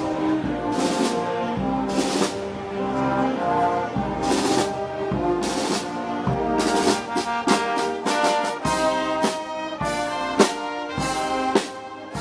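Brass band playing, with trombones and trumpets carrying the melody over cymbal crashes and drum strokes. The crashes are occasional at first and come about twice a second in the second half.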